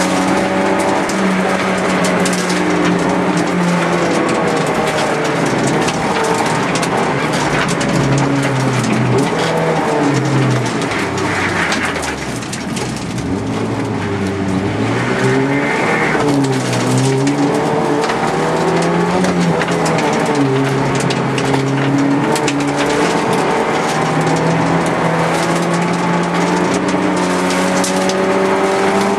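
Car engine heard from inside the cabin during a slalom run, revving hard and dropping again and again as the car accelerates and slows between the cones. Around the middle it eases off briefly, with short tyre squeals.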